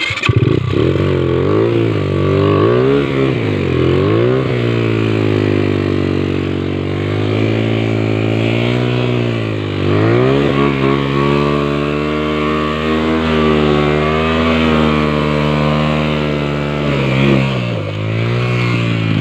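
An engine revving up and down several times, then running steadily with a brief drop in speed about halfway through and a small rev near the end; it cuts off suddenly at the end.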